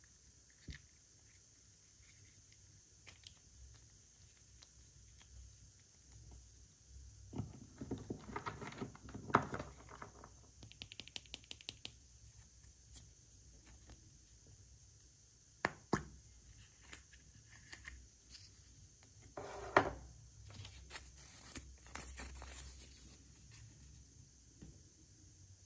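Hands opening and handling toy packaging: crinkling, tearing wrapper, a quick run of fine ticks, and a few sharp plastic clicks and snaps.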